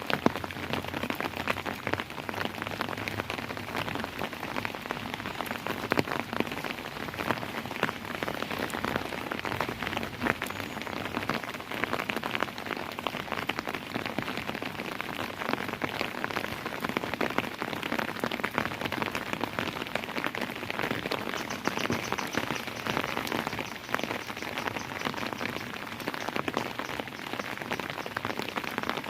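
Steady rain falling, a dense patter of many small drops striking a surface.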